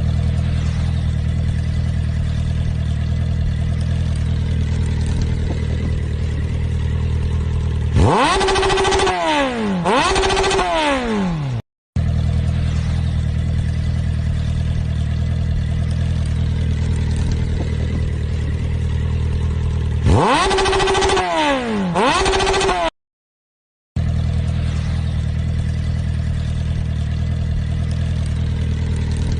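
Motorcycle engine idling steadily, then revved twice, the pitch falling away after each rev. The same recording breaks off briefly and plays again with the same idle and two revs.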